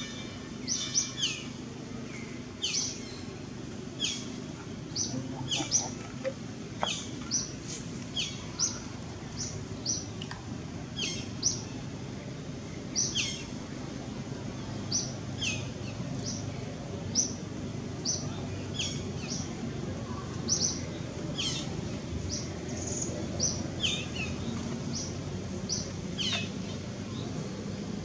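A bird calling over and over: short, high, falling chirps about once a second, over a steady low background rumble.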